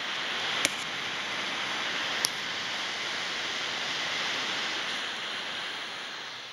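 Sony Vaio Flip 15A laptop cooling fan blowing with a steady rushing noise that swells at the start and eases off near the end. Two sharp clicks come, one under a second in and one a little after two seconds.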